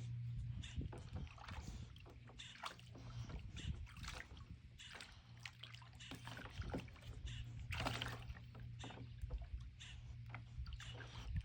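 A dog splashing in pool water: irregular sloshes and splashes over a steady low hum.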